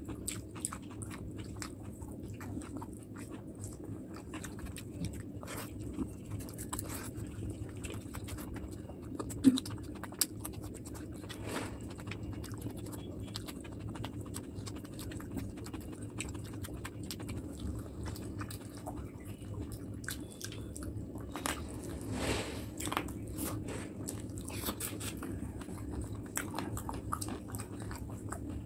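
Close-miked chewing of mouthfuls of rice and curry eaten by hand, with many small mouth clicks over a steady low hum; one louder click about a third of the way in.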